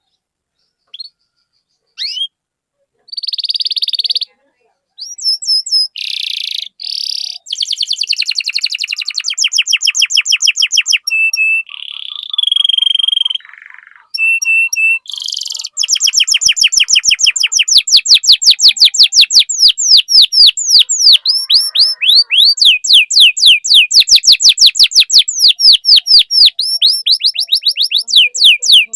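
Domestic canary singing. It starts with scattered chirps and short trills, then from about halfway it settles into a long run of quick, repeated sweeping notes.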